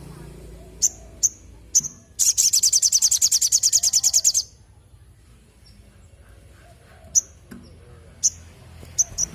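Little spiderhunter (sogok ontong) calling: sharp, high single chips, and about two seconds in a fast, loud trill of roughly ten notes a second that lasts about two seconds. After it come more spaced single chips, a few of them in quick pairs near the end.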